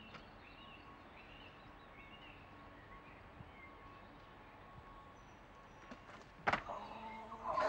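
Faint steady background with a few faint bird chirps, then one sharp thump about six and a half seconds in.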